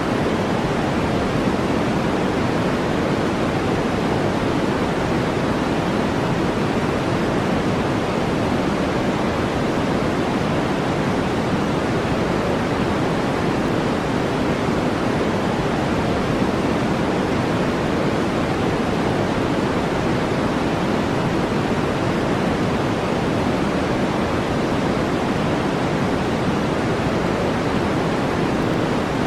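A steady, unbroken brown-noise track: an even rushing noise weighted toward the low end, with no change in level.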